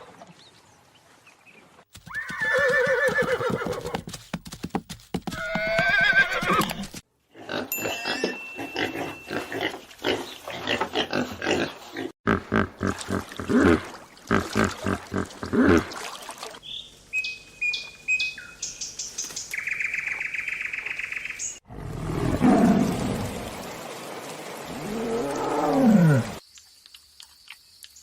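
A series of different animal calls, one short recording after another with brief gaps between them, including a long pulsing call in the middle.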